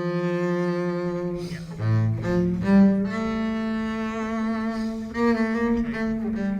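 Background music played on a bowed low string instrument, cello-like, in long held notes that move to a new pitch every second or two.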